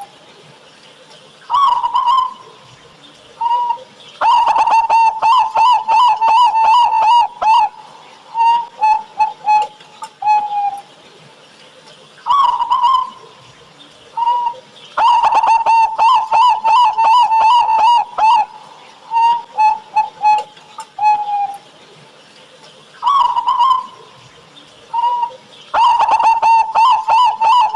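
Zebra dove (perkutut) cooing song: a couple of single notes, then a fast rattling run of coos, then a few slower, spaced coos that trail off. The phrase comes three times, about eleven seconds apart.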